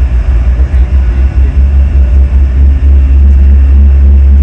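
Deep, loud rumble of a jet airliner's engines, wavering in level.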